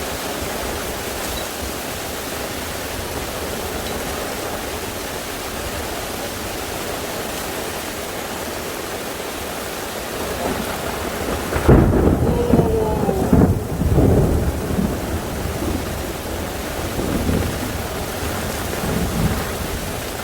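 Heavy rain falling steadily, then a loud roll of thunder about twelve seconds in that rumbles for a few seconds and fades away.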